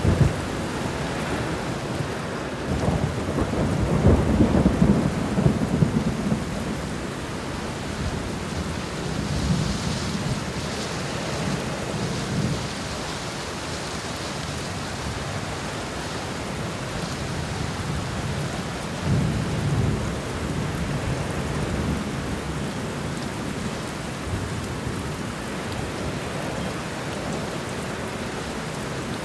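Thunderstorm: steady rain falling, with rolling rumbles of thunder swelling a few times, the strongest a few seconds in.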